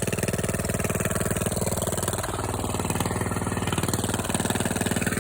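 An engine idling steadily with an even firing beat, warmed up close to operating temperature after a cold start.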